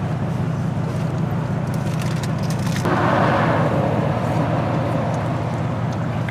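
Steady low hum of an idling vehicle engine. About three seconds in, a rush of noise sets in suddenly and fades away over the next two seconds.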